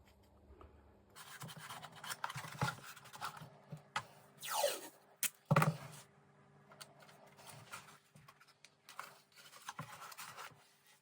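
Scratching and scraping of glue being worked into the transom joint of a model boat hull, in irregular strokes. A short falling squeak comes a little before the middle, followed by two sharp knocks, the second the loudest.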